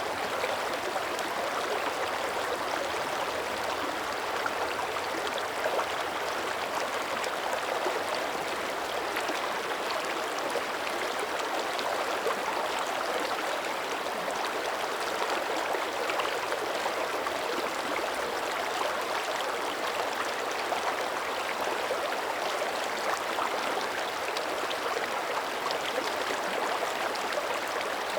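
Mountain creek running: a steady, even rush and babble of water flowing over stones.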